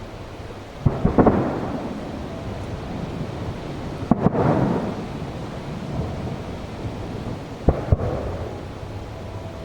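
Aerial firework shells bursting: three loud bangs a few seconds apart, the last a quick double crack, each followed by a long rolling rumble.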